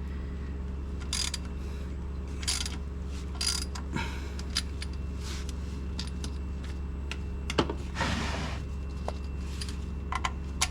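Hand tools being handled: scattered metallic clicks and clinks from a socket, ratchet extension and oil filter wrench being fitted together, with a longer rasp about eight seconds in, over a steady low hum.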